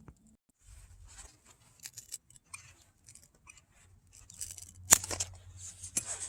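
Hand cutting tool snipping tough blue agave leaf into small pieces: scattered crackly snips and clicks, with a sharp click about five seconds in and another a second later.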